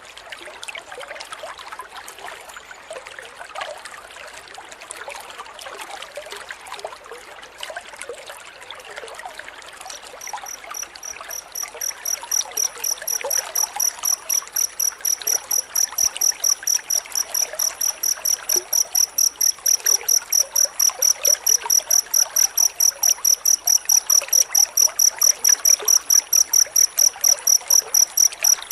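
Cricket chirping in a fast, even pulse of about four chirps a second, a high pure note that comes in about ten seconds in and grows louder, dense and unbroken. Before it there is only a rushing, hissy noise like trickling water, which stays faintly underneath.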